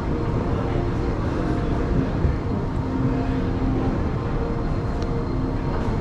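Steady background hubbub of a busy public walkway, with faint snatches of distant voices mixed in.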